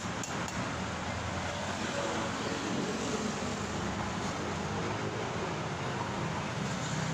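Steady motor-vehicle noise: a continuous, even running sound with a faint low hum and no sudden events.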